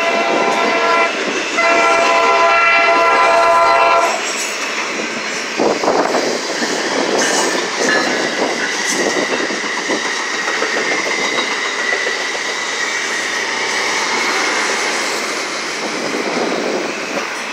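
A train horn sounds a chord, cut briefly about a second in and then held in a long blast that stops about four seconds in. After it comes the rolling rumble and clatter of freight autorack cars and a passenger train passing, with scattered clanks and a faint high wheel squeal in the middle.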